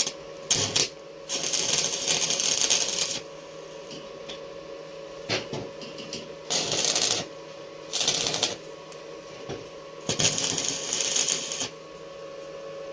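Electric arc welding on steel: several separate bursts of crackling sizzle, each lasting a second or two with pauses between, over a steady hum.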